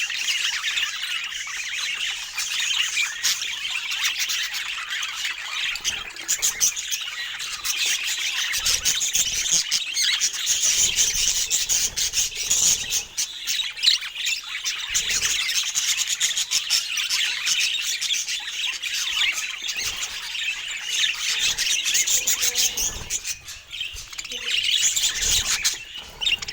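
Budgerigars chattering and chirping without a break.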